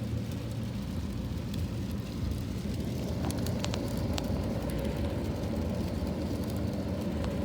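Heavy rain heard through a window pane: a steady low rush with a few sharp ticks scattered through it.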